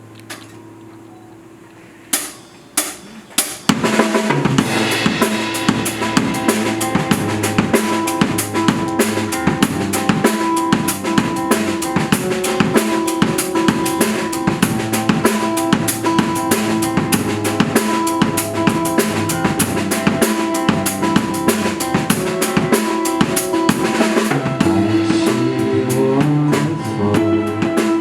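A live rock band starting an instrumental intro: a faint held chord, three sharp count-in hits about half a second apart, then the full band comes in with a busy drum kit and sustained guitar and keyboard chords.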